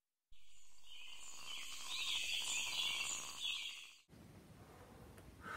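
High, thin chirping like birdsong, with no low end. It cuts in suddenly and fades out after about three and a half seconds.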